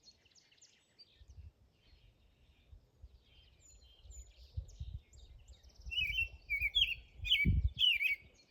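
Wild songbirds chirping and singing. From about six seconds in, one bird sings loud, repeated slurred phrases over a low rumble.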